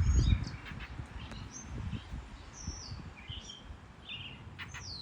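Northern mockingbird scolding, a run of short, varied chirps and whistles with a falling whistle near the end. A low rumble on the microphone at the start.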